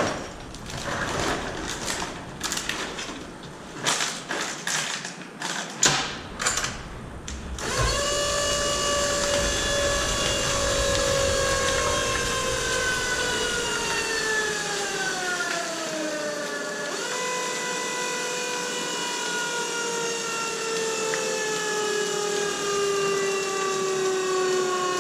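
A run of sharp knocks and crackles, then about eight seconds in the battery-powered PET mini baler's electric motor starts and runs with a steady whine. The whine slowly falls in pitch, dips sharply once past the middle, and recovers.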